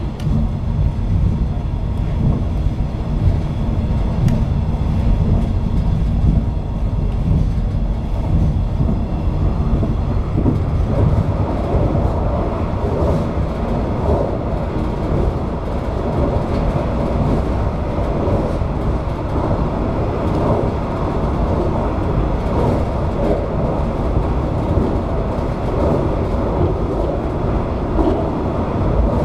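485-series electric train running at speed, heard from its rear cab, with steady wheel-on-rail rumble. About ten seconds in the running noise grows brighter and busier as the train rolls onto a steel truss bridge.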